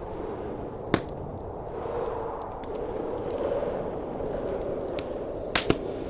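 Wood fire crackling in a fireplace, with a sharp pop about a second in and two quick pops near the end, over the steady roar of blizzard wind.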